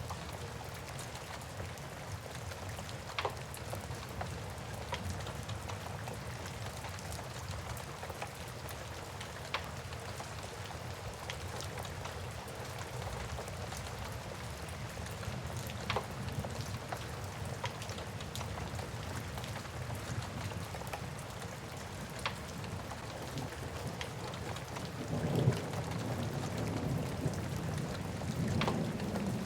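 Steady rain mixed with a crackling wood fire, a few sharp pops standing out every several seconds. A low rumble of thunder swells near the end.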